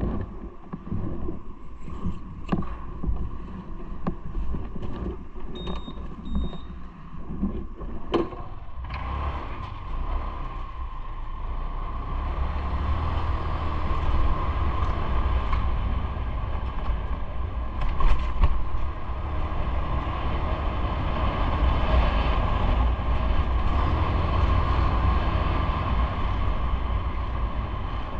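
Handling clicks and knocks for the first several seconds, then steady riding noise from a moving vehicle: a low rumble with wind on the microphone that builds and holds, briefly louder about 18 seconds in.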